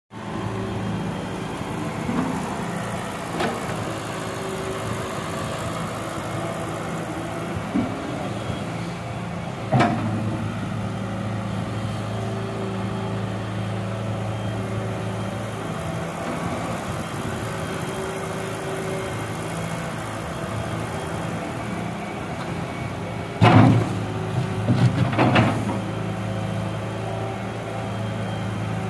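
Doosan excavator's diesel engine running steadily, with a few sharp knocks along the way and a louder burst of knocks and clatter about 24 seconds in.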